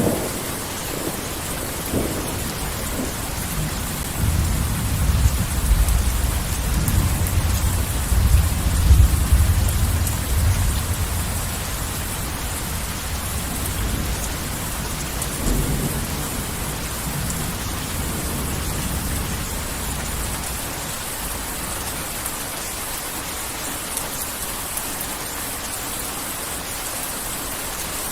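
Heavy rain falling steadily, with a long low rumble of thunder that swells a few seconds in and peaks near the middle of its run, a softer roll shortly after, then the rain alone toward the end.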